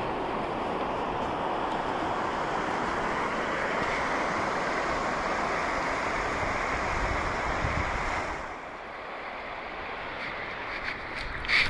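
Ocean surf washing on the shore, a steady rushing noise with wind on the microphone; it drops quieter about eight seconds in.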